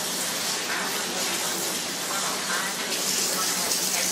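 Chicken pieces shallow-frying in hot oil in a skillet, a steady sizzle over a faint low hum.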